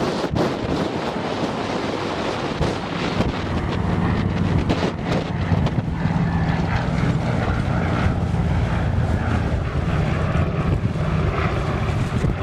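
Propeller aircraft engine droning steadily, coming in and growing louder from about two and a half seconds in, over wind buffeting the microphone.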